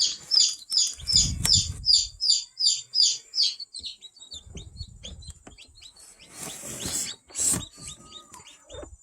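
Newly hatched chick peeping: short, high, falling peeps at about three a second, fading to fainter, scattered peeps partway through, with brief rustling near the end.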